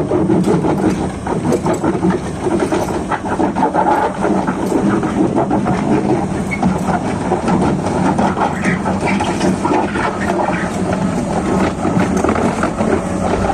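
XCMG XE215C crawler excavator's diesel engine running steadily under load while the machine travels down a pile of sand and stone, with frequent clanks and rattles from its steel tracks.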